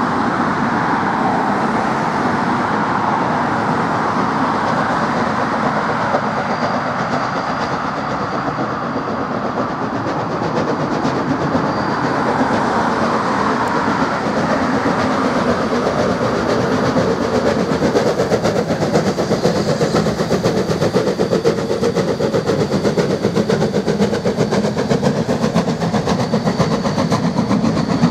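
NZR A class 4-6-2 Pacific steam locomotive A 428 working a passenger train, its exhaust beat and rolling wheels mixed with cars passing on the road. The train grows louder and more rhythmic about halfway through.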